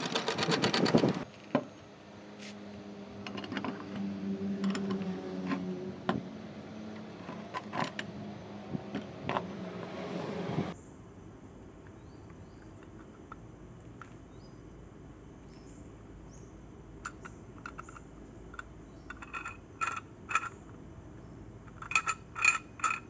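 A low, steady machine hum with scattered clicks cuts off abruptly about ten seconds in. It is followed by quiet, then a series of light metallic clinks and taps near the end.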